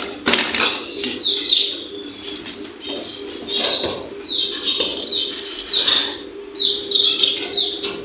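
Small cage birds in an aviary setup chirping over and over in short, high, downward-sliding calls, with a few brief rustling bursts among them.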